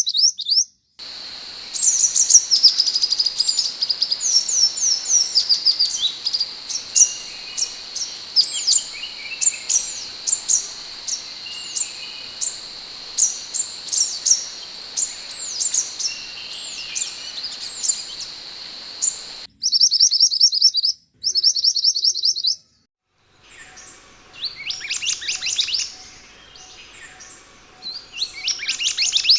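Scarlet minivet (sepah hutan) calling: rapid series of thin, high, falling whistled notes, repeated over and over. It comes in several spliced recordings with short silent breaks, and a steady high-pitched drone sits under the calls in the first part.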